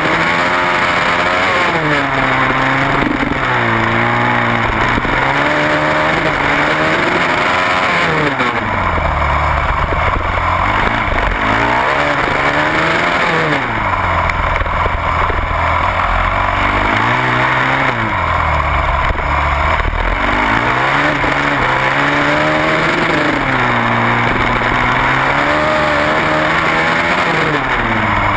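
Onboard sound of a supermoto motorcycle engine at racing speed, its pitch climbing and falling again and again every few seconds as the bike accelerates out of corners, changes gear and brakes for the next turn.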